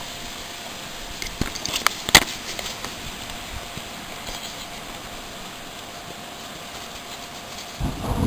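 A steady low background with a few sharp clicks about two seconds in, then a loud, deep rumble of thunder breaking in just before the end.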